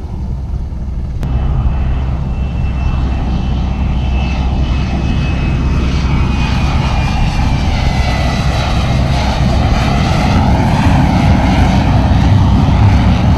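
F-35B Lightning II jet engine running loud during a landing, steady and dense, with a high whine that slowly falls in pitch. It steps up in loudness about a second in.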